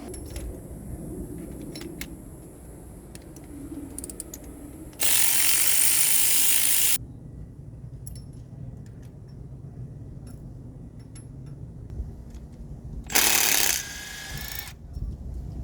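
Hand-tool work on an engine: scattered faint ratchet clicks, broken by two loud bursts of steady rushing noise. The first lasts about two seconds, a third of the way in; the second is shorter and comes near the end.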